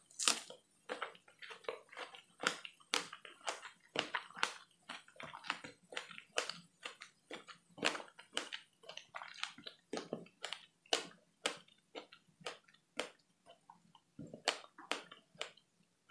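Close-miked chewing of a bitten fresh strawberry: a quick run of short mouth clicks that grows sparser toward the end.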